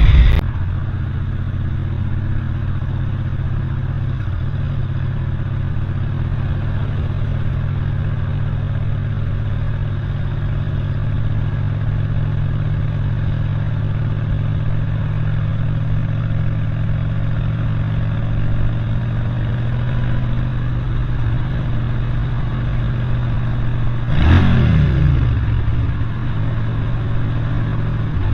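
Motor vehicle engine running at a steady speed. Near the end a louder vehicle passes, its pitch falling as it goes by.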